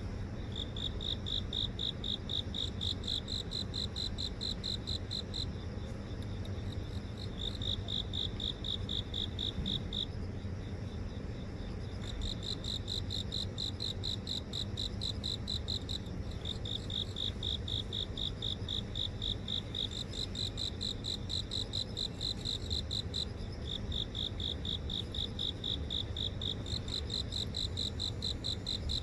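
Cricket song: fast pulsed trills at one steady high pitch, coming in bouts of a few seconds with short breaks between, over a low steady rumble.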